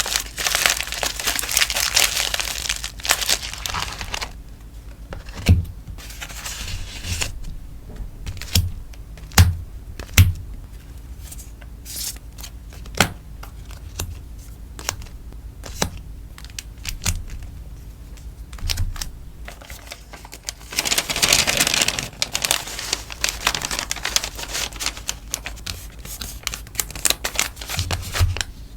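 Crinkling and rustling of plastic and paper sticker packaging being handled, in two long stretches, with scattered sharp taps and clicks between them.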